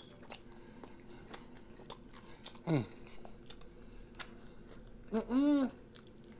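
Close-up wet chewing and finger-licking: a run of small mouth clicks and smacks, with a short falling "mm" about three seconds in and a louder rising-then-falling hummed "mmm" of enjoyment near the end.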